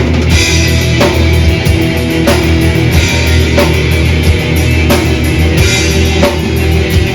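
A death/thrash metal band playing live: distorted electric guitars and bass over a pounding drum kit, with a regular accented hit about every two-thirds of a second.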